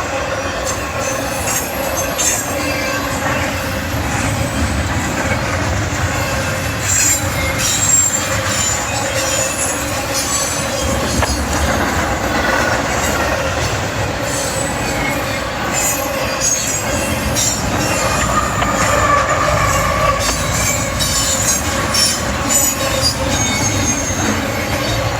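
CSX intermodal freight train's cars rolling past: a steady rumble of wheels on rail, with short high squeals and rattles coming and going.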